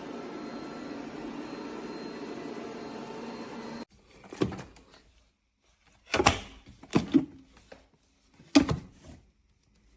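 Robot vacuum running with a steady whir that cuts off abruptly about four seconds in. Then several separate knocks and clicks come over the next five seconds, the loudest about six and about eight and a half seconds in.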